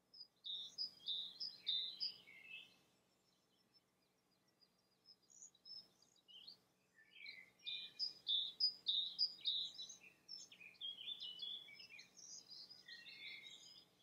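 Birdsong: quick, varied high chirping phrases, a burst near the start, a few scattered notes, then a longer run of song from about seven seconds in.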